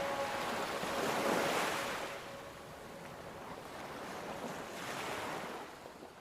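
Ocean surf washing in, swelling twice and then fading out.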